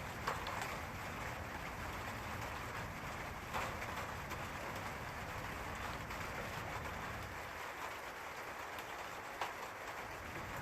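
Steady rain falling, an even hiss of many drops, with a few brief louder splashes.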